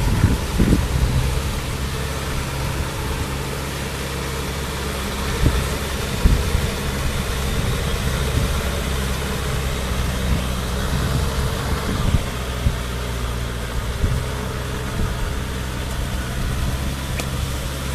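Kubota M6040 tractor's diesel engine running steadily, with a few short knocks over it.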